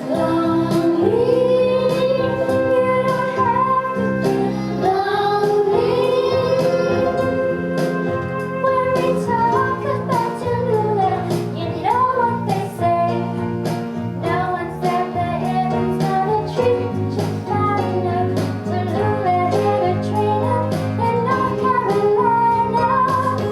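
A young female voice singing a show tune, holding long wavering notes, over instrumental accompaniment with a steady beat. The music drops away right at the end.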